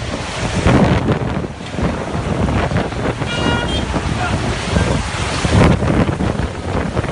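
Violent storm wind gusting hard over the microphone, a continuous rumbling blast that swells and eases. A brief high-pitched tone cuts through about three and a half seconds in.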